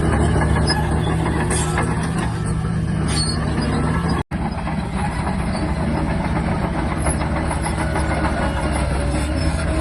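Shantui DH17-C3 crawler bulldozer's diesel engine running steadily, with the clatter of its steel tracks. The sound cuts out for an instant a little over four seconds in.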